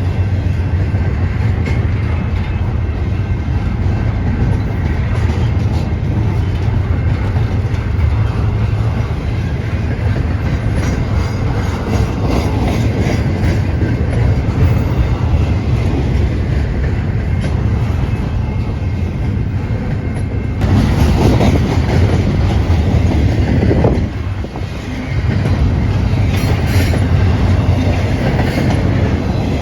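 Train rolling past with a steady low rumble and its wheels clicking over the rail joints. The sound turns abruptly louder and fuller about twenty-one seconds in, dips briefly a few seconds later, then carries on.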